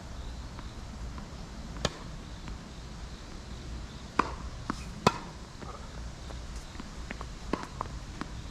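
Tennis ball being struck by rackets and bouncing on a hard court: a few sharp pops, the loudest about two and five seconds in, with fainter ones near the end, over a steady low rumble of wind on the microphone.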